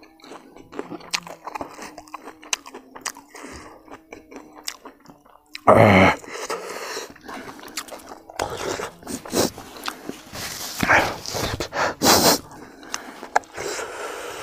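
Close-up chewing and crunching of crispy fried food, many short crisp crunches, with louder wet mouth sounds about six seconds in and again near twelve seconds.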